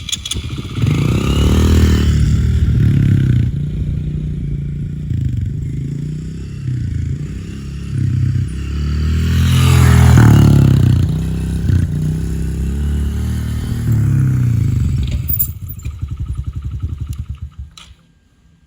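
A Honda motorcycle engine revving up and down while a peach is pressed against the spinning rear tyre, with scraping and clattering. The peach does not stop the wheel. Near the end the engine slows into separate beats and stops.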